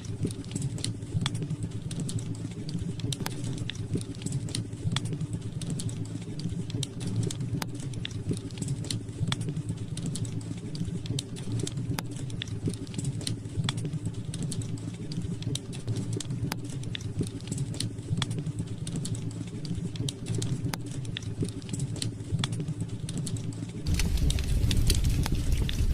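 Wood fire crackling in a fireplace: irregular sharp pops and snaps over a steady low rumble. Near the end the low rumble suddenly grows louder.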